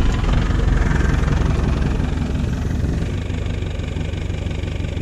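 Car engine running steadily, a low rumble.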